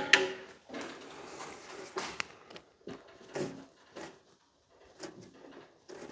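Handling noises: a string of light knocks and clicks at uneven intervals, with a sharp click about two seconds in, as parts and tape are worked on the band saw by hand.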